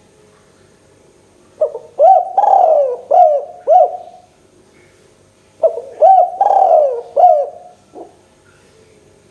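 Spotted dove (tekukur) cooing: two phrases about four seconds apart, each a quick run of several notes.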